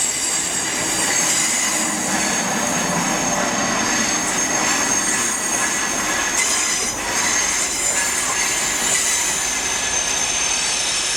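Passenger train moving slowly through the station with its wheels squealing on the rails: several high-pitched steady squeals over the rolling rumble.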